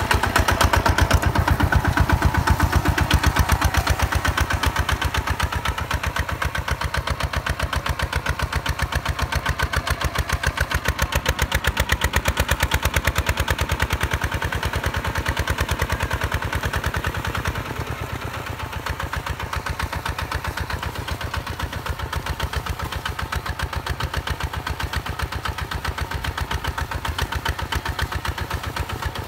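Hinota HG Gold 155 DI paddy-field tractor's single-cylinder diesel engine running steadily with fast, even firing pulses, dropping a little in level about 18 seconds in.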